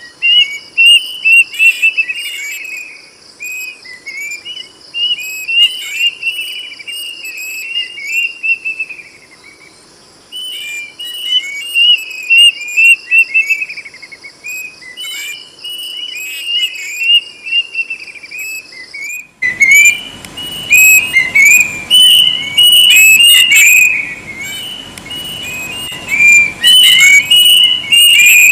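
Kedasih cuckoo singing loudly: rapid runs of short, clear whistles that slur downward, repeated over and over. A steady high buzz runs under the song until about 19 seconds in, where the recording cuts to a noisier background and the whistling carries on.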